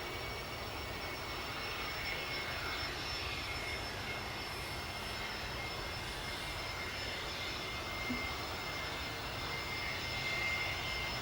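Cessna 525 Citation CJ1 business jet's twin turbofan engines running with a steady high whine over a rushing noise, the pitch holding almost level and rising slightly near the end.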